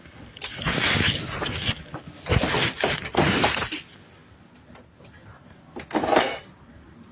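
Handling noise of a door or cabinet being opened and moved: several scraping, knocking bursts in the first four seconds, then one more near the end.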